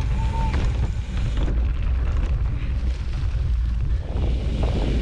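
Mountain bike rolling fast along a dirt singletrack trail: a steady low rumble of wind on the camera microphone mixed with tyre and trail noise.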